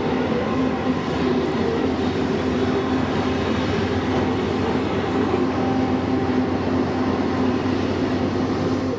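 CPKC freight train of covered grain hopper cars crossing a steel arch bridge: a steady rumble of rolling wheels with the steady hum of the diesel locomotives.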